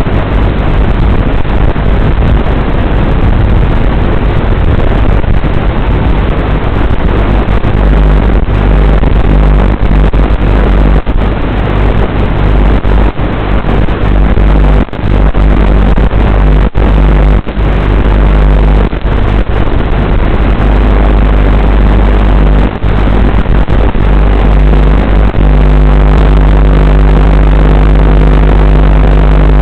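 Loud, steady rushing noise with a low hum, heard through the onboard FPV camera audio of a WLToys 12418 RC car as it drives, broken by a few brief dropouts.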